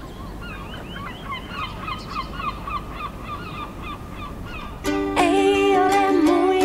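Outdoor ambience: a low background rumble under a fast run of short repeated bird chirps, several a second. About five seconds in, music cuts in suddenly with a loud held chord and a wavering melody line over it.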